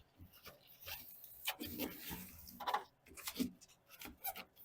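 Gloved hands pressing and smoothing a sheet of sound deadener into place, with irregular crinkling, rubbing and light scratching.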